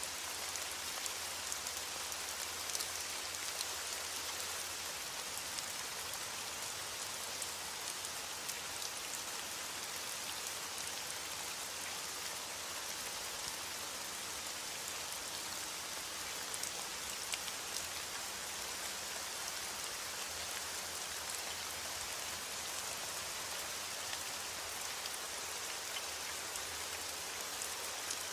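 Heavy rain falling steadily against a window, with scattered small crackles from a fire.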